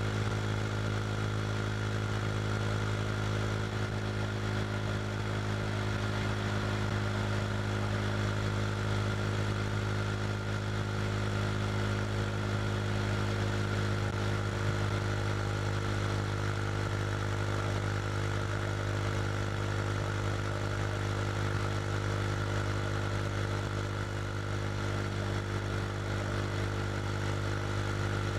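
KTM RC 390's single-cylinder engine through an SC Project slip-on exhaust, running at a steady engine speed as the motorcycle cruises at highway speed. The pitch and loudness hold even the whole time.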